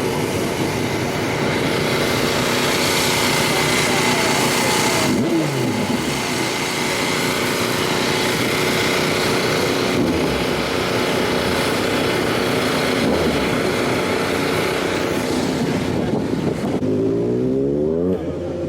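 Car engine revving hard and running loud, with a drop in pitch about five seconds in and a quick series of rising revs near the end.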